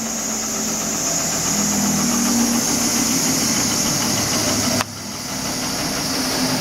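Holz-Her 1735 milling machine running steadily with a high whine and a low hum. A sharp click comes near the end, and the running carries on.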